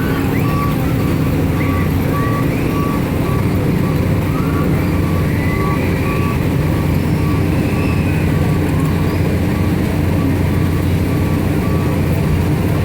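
Carnival train ride running, with a steady engine rumble and a high electronic beep repeating about twice a second.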